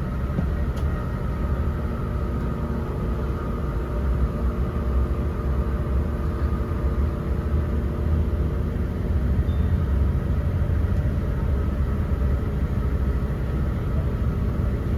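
Class 166 diesel multiple unit under way, heard from inside the carriage: a steady low rumble of engine and running gear with a faint steady whine above it.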